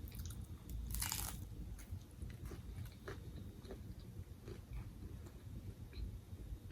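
Close-miked eating: one loud crunchy bite about a second in, then chewing with many small crackling clicks.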